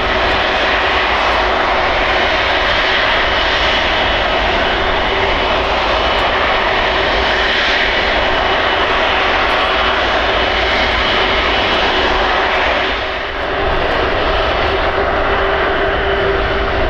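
Jet airliner engines running loud and steady, a dense rush with a faint steady whine over it. About thirteen seconds in the noise dips briefly, then carries on.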